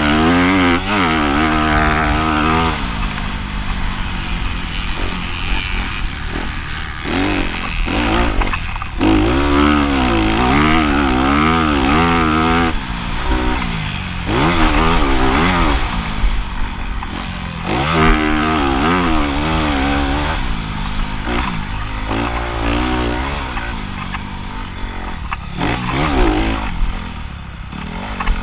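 Motocross bike engine revving up and down repeatedly, its pitch rising and falling over and over as the rider gets on and off the throttle.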